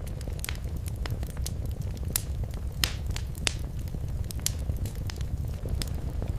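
Wood fire crackling in a fireplace: irregular sharp pops and snaps over a steady low rumble of the flames, with a few louder pops about two to three and a half seconds in.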